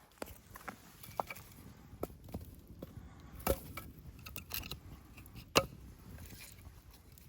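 Scattered sharp clicks and knocks with faint rustling between them, the loudest knock about five and a half seconds in, from handling camp gear.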